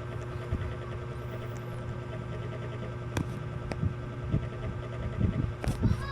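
Steady electric hum of running ceiling fans, with a few short knocks in the second half.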